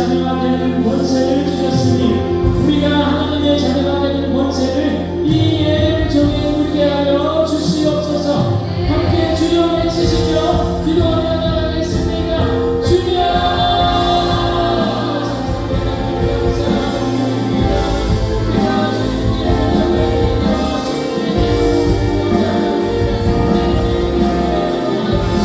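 Worship band playing a praise song: several voices singing together over keyboards, bass and drums, with regular cymbal strokes that die down about halfway through.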